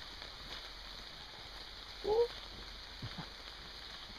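Steady rain falling on woodland foliage, heard as an even hiss. About two seconds in there is a short rising voice-like sound.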